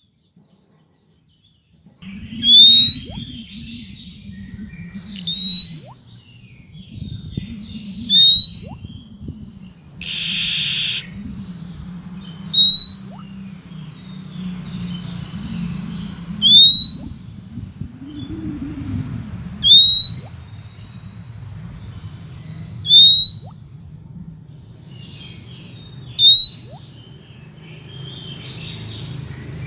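Female oriental magpie-robin giving a loud, short rising whistled call over and over, about once every three seconds: the sweet female call used as a lure to draw in males. There is one harsh, raspy note near the middle.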